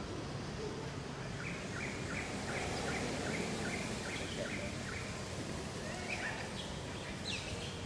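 Steady forest background noise with a bird repeating one short falling note about three to four times a second for several seconds, followed by a few higher calls near the end.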